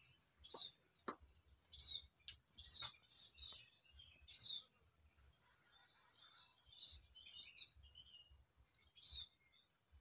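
Small birds calling: sharp, short, downward-sliding chirps repeated every second or two, with a stretch of softer twittering in the middle.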